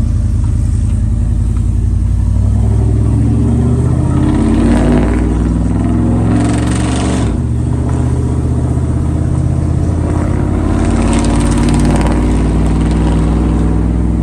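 Chevrolet Silverado 5.3-litre V8 with long-tube headers and a full 3-inch Magnaflow Magnapack exhaust, heard from inside the cab with the windows down. The exhaust note is mellow and deep and climbs in pitch under throttle, dips briefly about seven seconds in, then climbs again.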